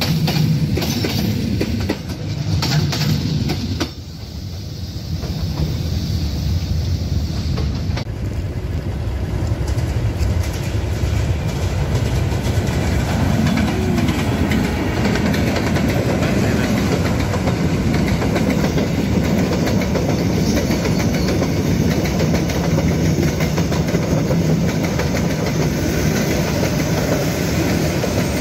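Passenger train passing close by: the sound builds as it draws near over the first several seconds, then the coaches roll past with a steady rumble of wheels on the rails.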